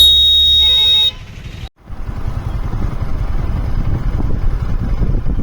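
A vehicle horn sounds loudly for about a second and cuts off. After a short break, a motorcycle ride's steady engine rumble and wind rush take over.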